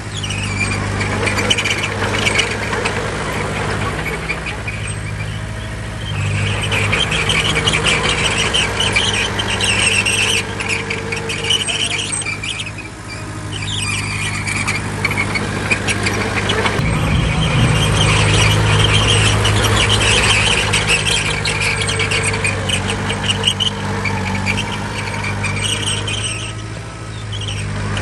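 Bulldozer's diesel engine running under load with a steady hum, its pitch and level changing a few times, while a loud high-pitched metallic squealing comes and goes over it.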